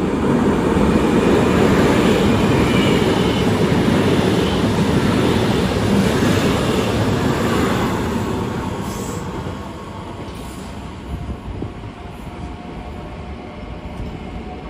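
Trenord ETR 521 double-deck electric multiple unit running past along the platform, a loud, deep rumble of wheels and cars that fades after about eight seconds to a quieter steady rumble.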